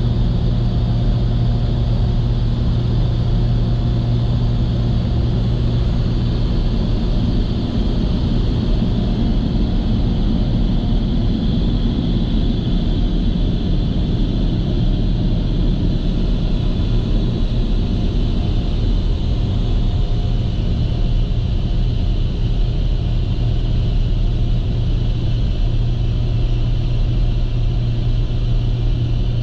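Steady low rumble heard inside the cabin of a 2021 Camaro 2SS during an automatic car wash: the idling 6.2-litre V8 under the even hiss and whir of the wash equipment.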